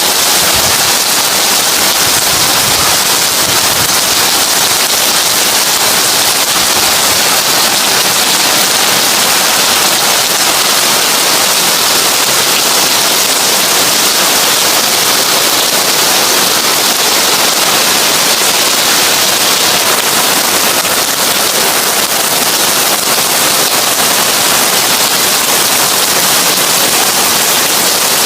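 Heavy rain falling on a tin roof: a steady, dense crackling patter with no letup.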